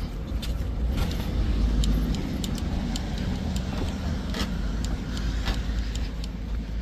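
A car passing on the road, its low engine and tyre rumble swelling about two seconds in and then easing off, with light jingling clinks over it.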